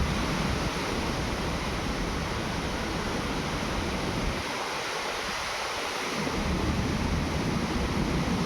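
Wind blowing across the microphone: a steady rushing noise with a low buffeting rumble that drops away for about a second and a half midway, then returns.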